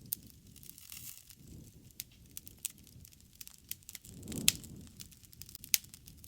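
Wood campfire crackling: sharp, irregular pops over a low rumble of flame. The rumble swells about four seconds in, with the loudest pop at its peak.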